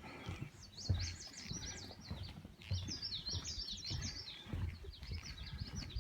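Songbirds singing quick, high chirping phrases in three bouts, over irregular low thuds of footsteps on a wooden boardwalk.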